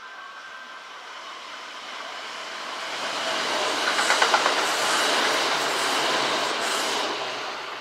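Kintetsu electric train passing through the station: the sound builds to a peak about four seconds in, with a quick run of wheel clicks over the rail joints, then fades as it goes by.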